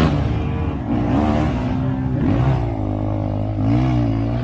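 Off-road vehicle engine revving under load, its pitch rising and falling several times as the throttle is worked.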